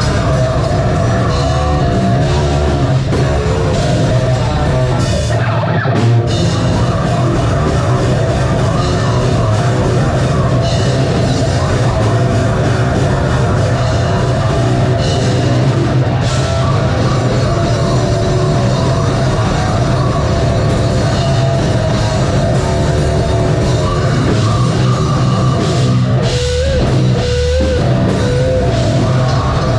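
Metal band playing live with distorted electric guitars, bass and a drum kit, loud and dense throughout, with a brief break about six seconds in.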